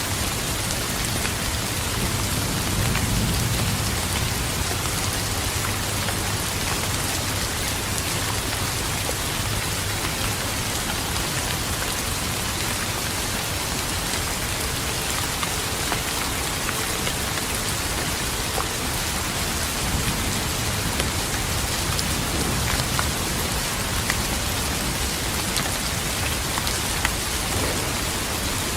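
Steady heavy rain falling, with scattered sharp drop ticks over an even hiss. A low rumble of distant thunder swells a few seconds in.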